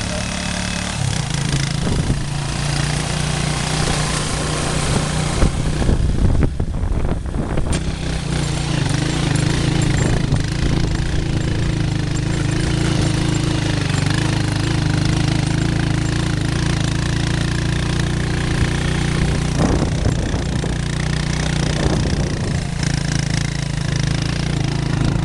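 Motorcycle engine running steadily on the move, its hum under a constant rushing noise.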